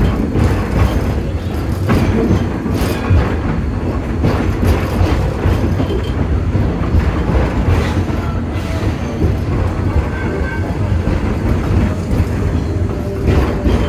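Steady low rumble of a heritage passenger train under way, heard on board, with the wheels clicking now and then over rail joints.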